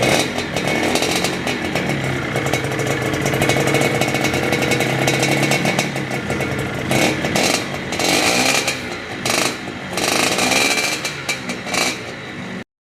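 Yamaha RD125LC's two-stroke single-cylinder engine running, its revs rising and falling several times in the second half. The sound cuts off suddenly near the end.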